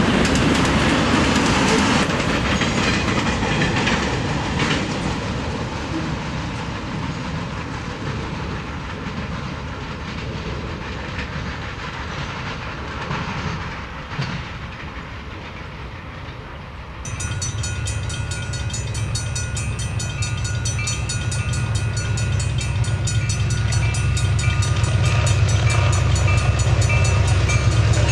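Freight cars rolling past with a clickety-clack of wheels over rail joints, fading as the train moves away. Then, from about two-thirds of the way in, a lead locomotive's Caterpillar-engined diesel approaches with a steady low growl, growing louder.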